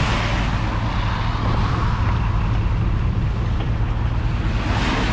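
A motor vehicle running steadily: a low engine drone under an even rushing noise.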